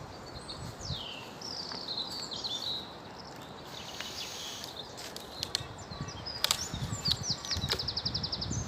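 Small songbirds singing: short chirps and whistled notes sliding up and down, with a fast, evenly repeated trill near the end.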